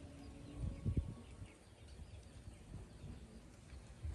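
Faint bird chirps over steady outdoor background noise, with a brief low thud just under a second in.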